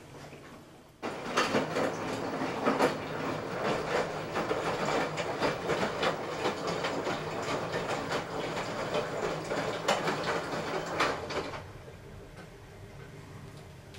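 LG washing machine rattling and clattering with a vibrating noise, the fault it is troubled by. The noise starts suddenly about a second in and stops about two seconds before the end, leaving a quieter steady hum.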